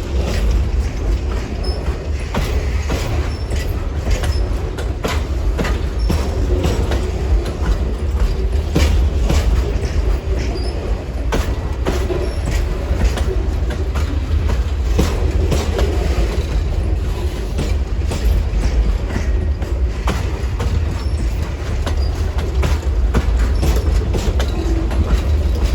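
Amtrak Auto Train's cars rolling past at speed: a steady low rumble with frequent irregular clicks and clunks of the wheels over the rail joints.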